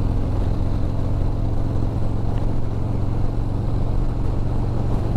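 Motorcycle engine running at a steady cruise, a constant low hum that holds its pitch, with rushing wind and road noise over it.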